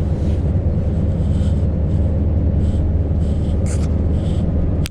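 Scania V8 truck engine running steadily at low revs, heard from inside the cab, with a brief hiss about three and a half seconds in.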